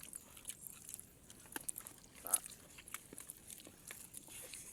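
Close-up mouth sounds of eating: scattered short wet clicks and crunches of chewing a meal of rice, with one louder bite a little past halfway.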